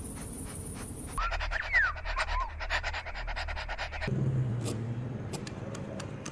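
Puppies, with a few short high squeaks over rapid scratchy rubbing noise between about one and four seconds in. The sound then changes abruptly to a low hum with scattered sharp clicks.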